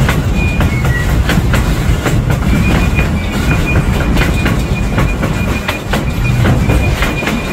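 Passenger train cars rolling, the wheels clicking over rail joints on top of a steady low rumble, heard from an open-air car. A thin high squeal comes and goes from about two and a half seconds in.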